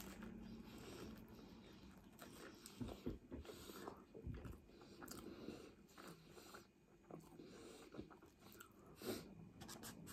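Close-up mouth sounds of a person chewing a battered sweet and sour ball: soft, wet chewing with irregular small clicks and crunches of the batter, dropping off briefly in the middle.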